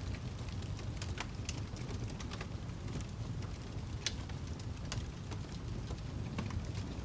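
Wood fire crackling: irregular sharp snaps and pops over a steady low rumble of burning, with the loudest snap about four seconds in.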